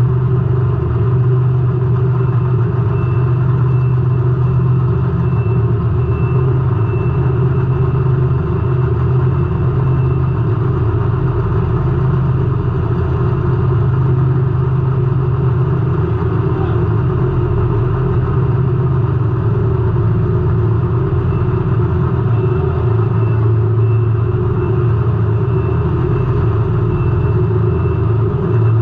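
Race car engine running at a steady, unchanging pitch, heard from a camera mounted on the car.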